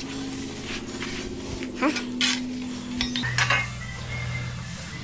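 Short metallic clinks and scrapes over a steady machine hum that drops to a lower pitch about three seconds in.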